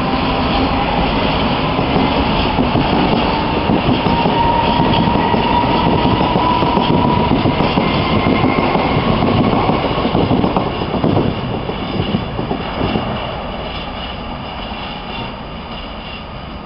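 Freight wagons of a shunting train rolling past: wheels clattering over rail joints with a thin metallic squeal from the wheels. The sound fades from about two-thirds of the way through as the wagons move away.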